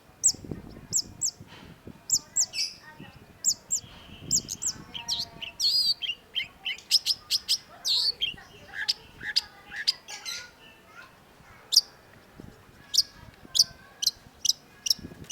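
Long-tailed shrike singing: a fast, varied run of sharp high chirps and trilled notes, densest in the middle, thinning to spaced single chirps near the end.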